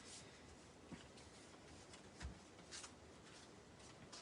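Near silence, with a few faint clicks and rustles from paper-crafting materials being handled.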